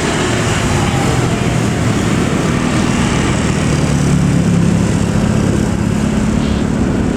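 Jet airliner engines running loud and steady as a plane passes close by, a low drone under a broad rush of noise that swells slightly about four seconds in.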